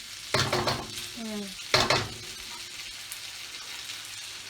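Food sizzling in a frying pan as it is stirred, with two loud scrapes of the utensil against the pan in the first two seconds.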